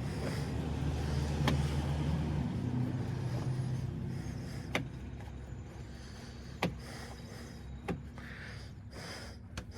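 About five sharp clicks and light knocks from parts being fitted into an old GMC truck's door, over a low steady hum that fades out after the first couple of seconds.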